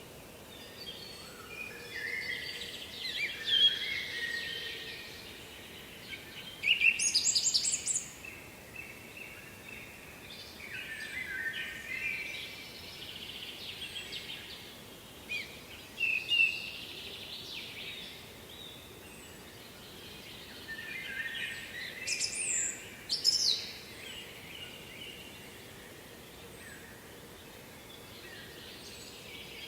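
Songbirds singing, a series of separate warbling and trilling phrases, the loudest about 7 seconds in and again about 22–23 seconds in, over a steady faint background hiss.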